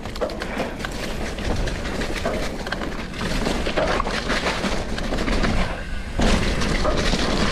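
Mountain bike riding down a dirt trail: wind buffeting the GoPro microphone over constant rattling and crunching from the tyres and bike, with a short lull near the end.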